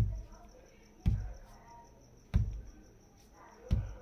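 Heavy, slow thuds like stomping footsteps, four of them about a second and a quarter apart, each dying away quickly. They show the kind of footsteps heard on the roof.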